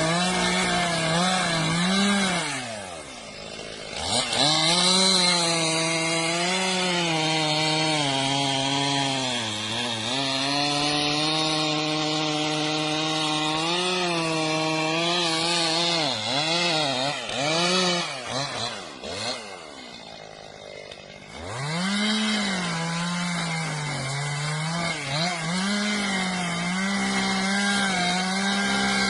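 Chainsaw running at full throttle through a cut, its pitch sagging and recovering again and again under load. It drops off briefly a few seconds in and again about two-thirds through, then picks back up.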